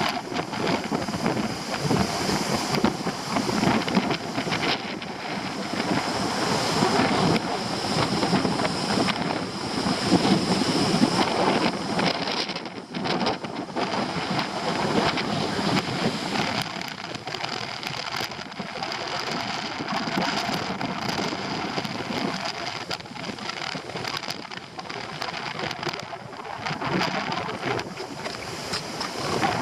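Stormy sea surf breaking and churning, its loudness surging and easing, with strong gusting wind buffeting the microphone.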